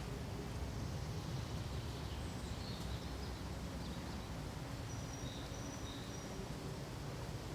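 Forest ambience: a steady rush of wind through pine trees, heaviest at the low end. A few faint, short high bird chirps come about a third of the way in and again just past the middle.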